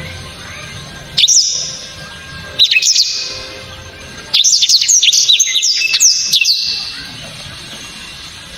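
Blackthroat (black-throated canary) singing in loud, sharp bursts of high, quickly sweeping whistled notes: two short phrases, then a longer run from about four to six and a half seconds in.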